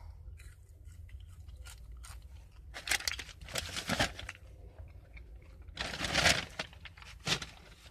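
Close-miked chewing of McDonald's French fries, with scattered soft crunches, and a short rustle about six seconds in.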